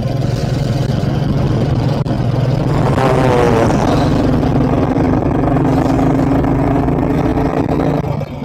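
Motorcycle engine running at cruising speed with wind rush, heard from the moving bike. About three seconds in, a second, higher engine note joins and holds steady.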